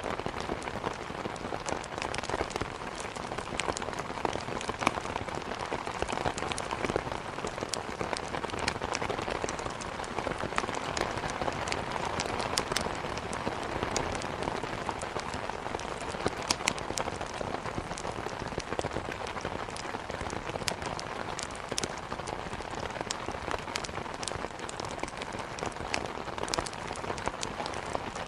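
Steady downpour of rain mixed with a wood fire crackling, with many scattered sharp pops and snaps.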